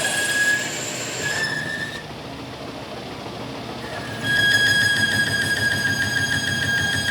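A steady, high-pitched metal-on-metal squeal from the machining of a steel bulldozer drive sprocket. It stops for about two seconds partway through, then comes back louder.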